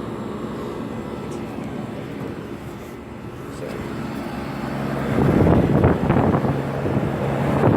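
Trane Odyssey packaged air conditioner running: a steady hum from the compressor and condenser fan, getting louder and rougher about five seconds in.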